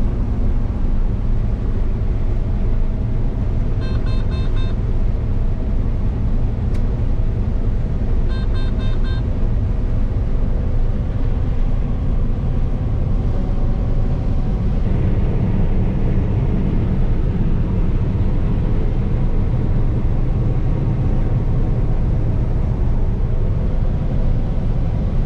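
Combine engine running steadily under harvest load. Two short bursts of rapid electronic beeping, a cab alarm or warning tone, come about 4 and 8.5 seconds in.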